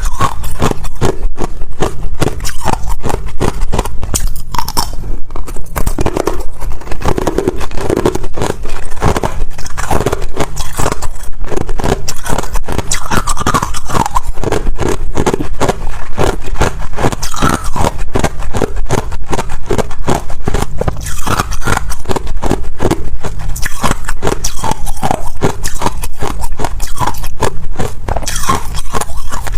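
Ice being bitten and chewed close to the microphone: loud, dense, continuous crunching and cracking.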